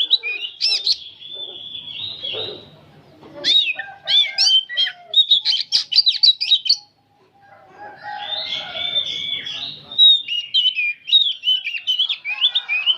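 Oriental magpie-robin singing a rapid, varied song of whistled notes and chatter, with a short pause about seven seconds in before it starts again.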